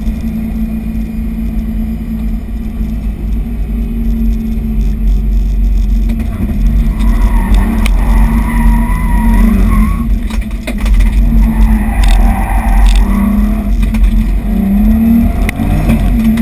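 BMW E30's engine heard from inside the caged cabin on a drift run, its note shifting up and down, with the tires squealing in a wavering tone about seven seconds in and again about twelve seconds in.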